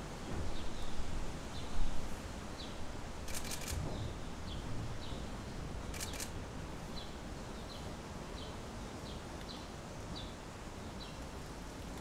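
Steady background hiss with a small bird chirping in short high notes every half second or so. A dull thump comes about two seconds in, and twice there is a quick burst of camera-shutter clicks.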